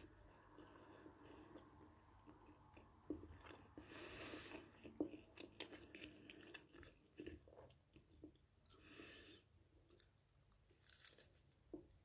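Quiet, close chewing and crunching of toasted multigrain bread topped with sausage, with small irregular crackles throughout and a few short breathy hisses now and then.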